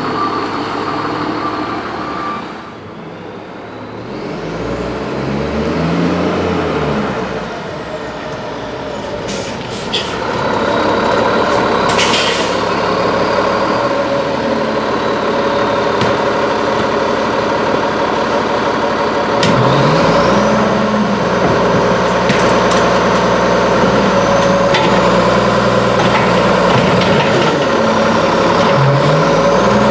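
Freightliner Condor garbage truck with an Amrep MSL packer body running, its engine revving up and easing back several times. A short hiss of air is let off about twelve seconds in.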